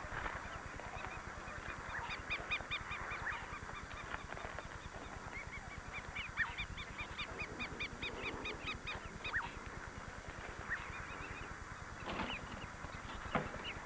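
A large flock of flamingos calling: many short, goose-like honks overlapping in a continuous chorus, at times in quick runs of several calls a second.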